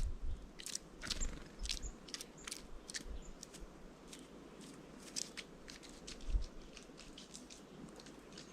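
Birds pecking and cracking seeds at a feeder: irregular sharp taps and crunches, a few every second, with a few faint short high chirps.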